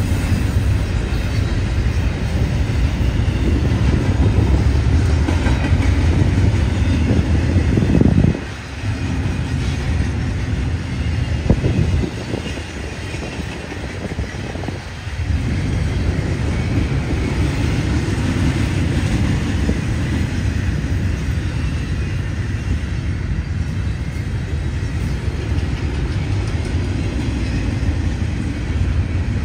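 Double-stack intermodal container train on well cars rolling past: a steady low rumble of steel wheels on the rails. It dips briefly about eight seconds in and goes quieter for a few seconds before building again.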